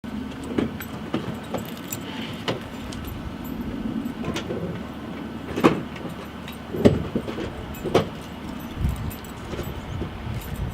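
Keys jangling, with a run of short knocks and thumps about a second apart; the loudest fall a little past halfway through.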